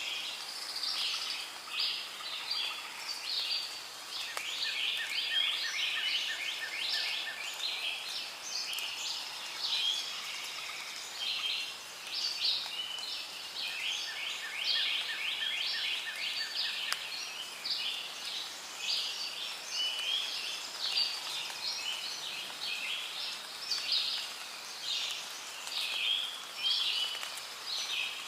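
Rainforest ambience: a dense, continuous chorus of high chirping and calling from birds and other creatures. A fast, lower trill comes in twice, about five seconds in and again about fourteen seconds in.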